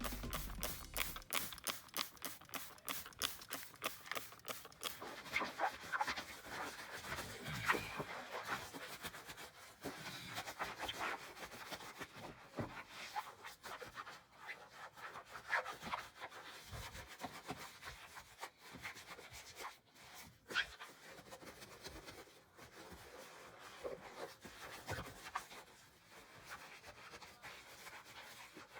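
Scrubbing and rubbing noises of car-interior cleaning. Quick, regular strokes for the first few seconds give way to slower, irregular scrapes and knocks.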